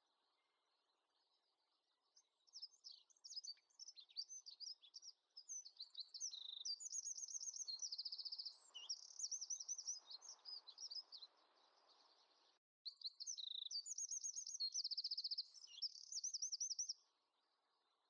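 A small songbird singing: quick, high twittering trills and chirps in phrases that start about two seconds in and stop about a second before the end, with a brief break around two-thirds of the way through. A soft, low rustle sits underneath in the middle.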